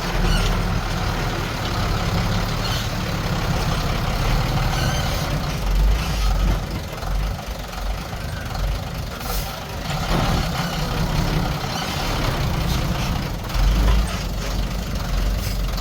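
Heavy diesel earthmoving machinery, a bulldozer and dump trucks, running steadily, with a few brief knocks along the way.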